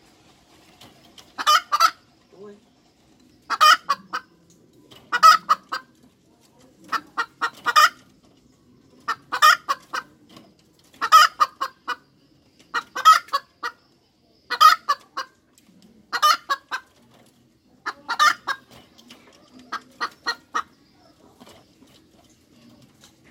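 Hen cackling: about ten bouts of sharp, rapid clucks, one every two seconds or so.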